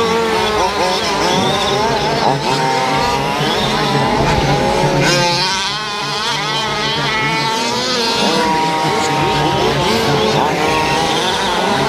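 Several fifth-scale RC trucks' small two-stroke gas engines racing together, buzzing and revving up and down as they accelerate and back off around the track.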